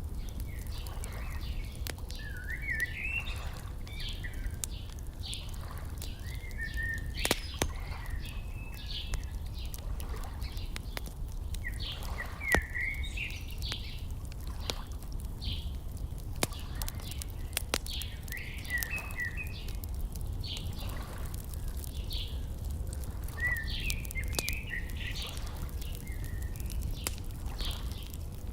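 Birds chirping and trilling over and over, over a steady low rumble, with sharp pops of a crackling wood fire every few seconds.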